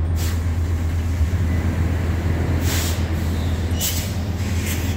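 Metrolink commuter train standing at the platform: a steady low engine drone, with four short hisses of compressed air.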